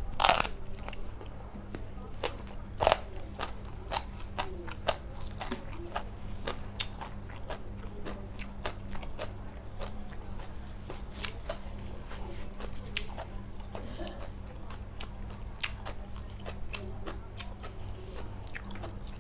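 A person chewing and crunching food close to the microphone: irregular crisp crunches and wet mouth clicks, a few louder bites near the start, over a steady low hum.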